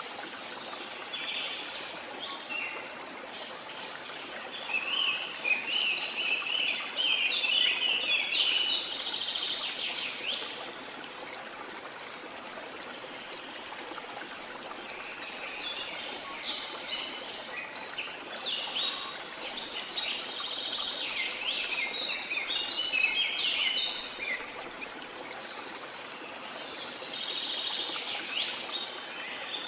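Steady rush of a waterfall with songbirds singing over it. The birds sing rapid trills and chirps in long bouts, one in the first third, another in the middle, and a third starting near the end.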